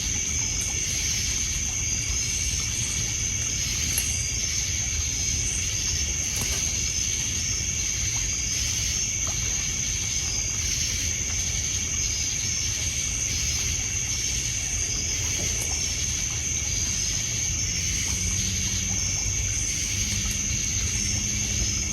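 A steady night-insect chorus of crickets trilling with a constant high pitch, over a low rumbling wash of water lapping on a pebble shore. Faint, scattered clicks of a crackling wood fire run underneath.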